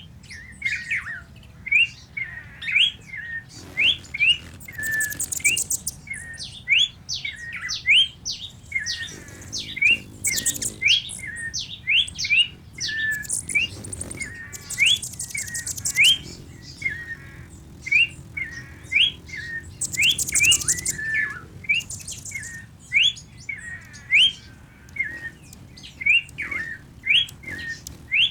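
Birds chirping: a steady run of short, rising chirps, several a second, broken now and then by a high, buzzy trill about a second long.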